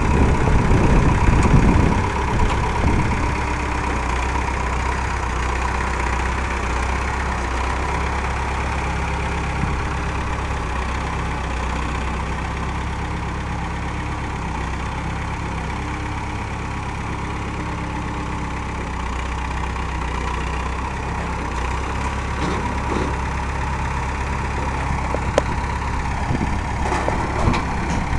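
Massey Ferguson 165 tractor's four-cylinder diesel engine idling steadily, a little louder in the first two seconds, with a few sharp clicks near the end.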